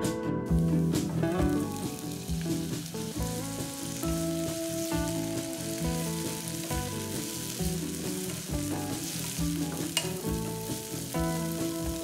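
Chopped tomato, onion and green chilli sizzling in hot oil in a non-stick pan while a wooden spatula stirs them, with background music over it. A sharp click comes near the end.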